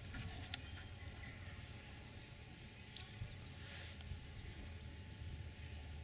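Faint outdoor ambience with a steady low rumble, broken by a few short, high bird chirps; the sharpest is about three seconds in.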